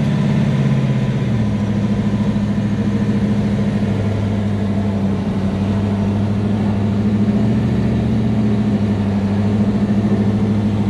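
Big-block V8 of a 1967 Chevelle drag car running steadily under light throttle while driving, heard from inside the car; its note drops in pitch about a second in.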